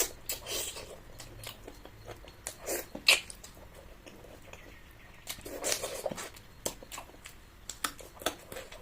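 Close-miked eating sounds: irregular chewing and mouth noises with a few sharp clicks, one louder click about three seconds in.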